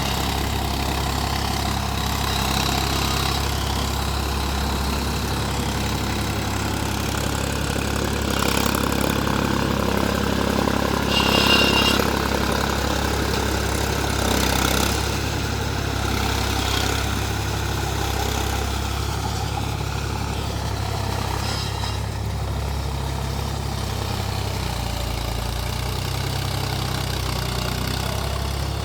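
Mahindra 275 DI TU tractor's three-cylinder diesel engine running at a steady idle, briefly louder and rougher about a third of the way through.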